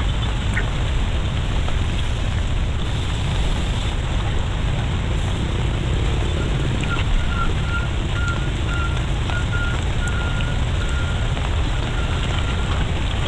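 Steady rushing noise of rain and flowing floodwater. About halfway through, a string of short high beeps starts, about one and a half a second, and stops near the end.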